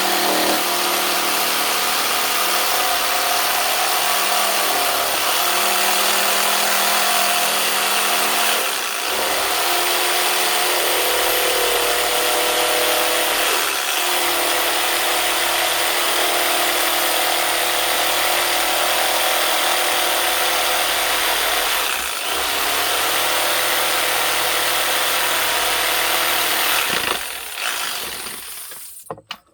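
Corded jigsaw with a heavy blade cutting through a wooden board, running steadily with its motor pitch shifting under load and a few brief dips. It winds down and stops near the end.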